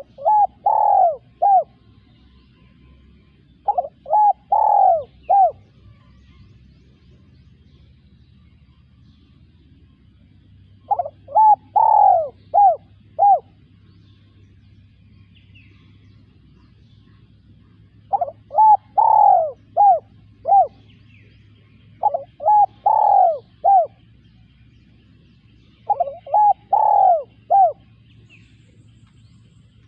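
Spotted dove cooing: six phrases of four or five short, rhythmic coo notes, each phrase about two seconds long, repeated every few seconds.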